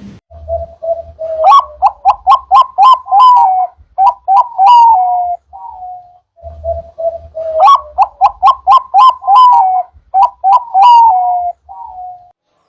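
Zebra dove (perkutut) singing two full song phrases. Each opens with a steady low note and then runs into a quick series of short rising coos, the second phrase beginning about six seconds in.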